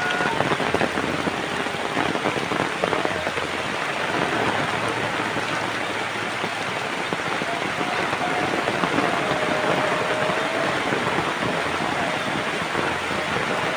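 Steady heavy rain, countless drops hitting surfaces in a dense, even hiss.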